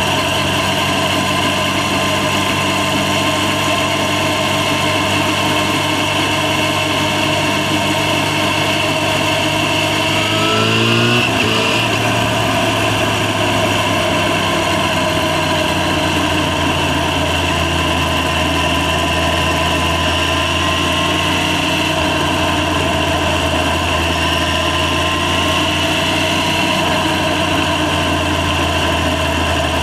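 Yamaha FZ6's 600 cc inline-four engine running steadily while riding. Its revs climb briefly about ten seconds in, then settle at a lower, steady pitch.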